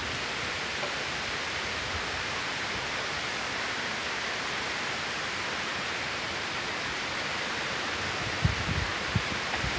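Torrential rain pouring down as a steady, even hiss. Near the end, gusts of strong wind start buffeting the microphone with low thumps.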